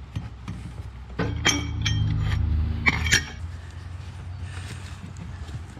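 Metal tools and parts clinking and clanking, with a handful of sharp, ringing clinks between about one and a half and three seconds in, over a low rumbling scrape.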